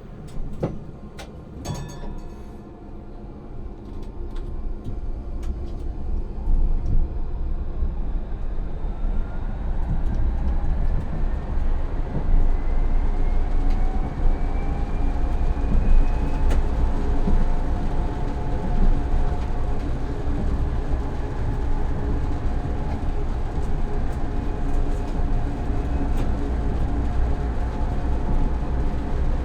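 Electric tram pulling away and picking up speed: the whine of the traction drive rises steadily in pitch for several seconds, then holds as a steady tone over the low rumble of wheels on rails. A few sharp clicks come in the first couple of seconds.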